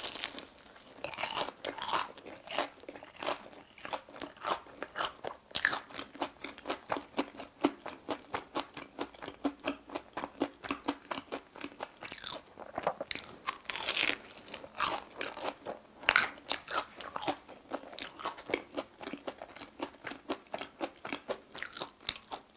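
Close-miked biting and chewing of a deep-fried Korean cheddar-cheese corn dog: one crunchy bite into the fried batter crust, then a long run of crunching chews, with louder crunches every so often.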